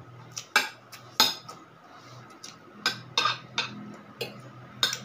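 Cutlery clinking and scraping against a plate and dishes during a meal: about seven sharp, irregular clinks, the two loudest within the first second and a half.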